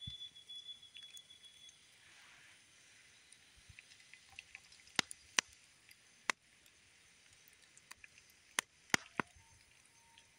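Common loon giving a faint, steady call near the end, over quiet lakeside ambience with about half a dozen sharp cracks scattered through the second half.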